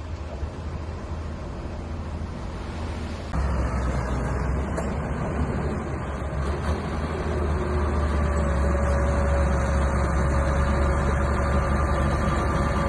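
Mini bulldozer's diesel engine running steadily with a deep hum. It gets suddenly louder about three seconds in, and a thin whine comes in over it in the second half.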